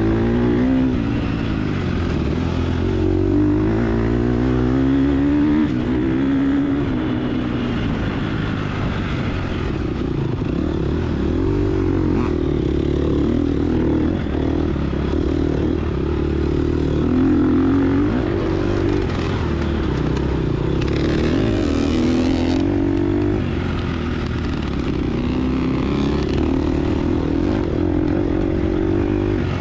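A 2022 Gas Gas EX250F dirt bike's four-stroke single-cylinder engine under load, the revs rising and falling over and over as it is ridden on a cross-country trail.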